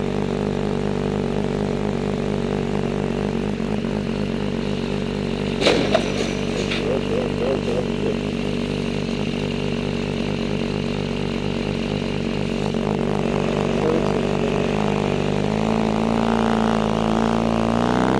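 A vehicle engine running steadily, with a sharp knock about six seconds in and a smaller one just after. Near the end the engine climbs in pitch and gets louder.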